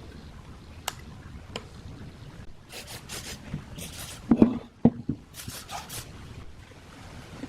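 Hand work on metal parts: a couple of sharp clicks, then short scraping strokes and two or three heavy knocks about halfway through.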